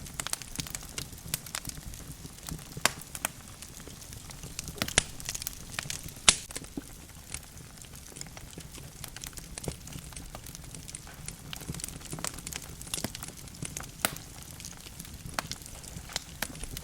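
Wood logs burning in a fireplace, crackling with irregular sharp pops over a low rumble of the flames; the loudest pop comes about six seconds in.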